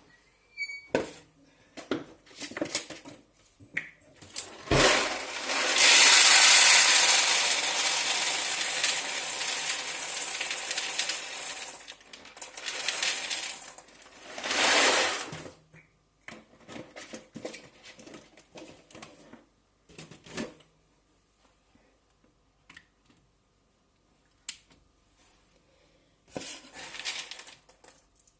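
Kitchen work with a cooking pot for beans: scattered clinks and clatters, and a long pouring rush starting about five seconds in that fades over about seven seconds, followed by a shorter rush and more clinks.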